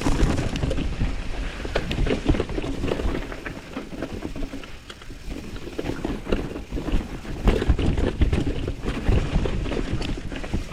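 Mountain bike riding down a rough dirt trail: tyres rumbling over rocks and roots, with many irregular knocks and rattles from the bike, and wind buffeting the microphone.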